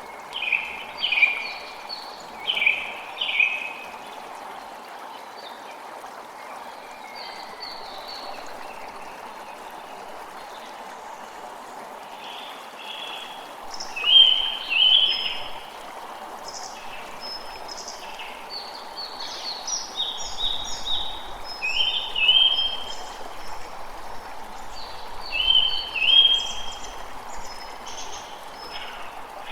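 A creek running steadily, with birds calling over it in short clusters of bright notes: a run near the start, another around the middle, and several more through the latter part.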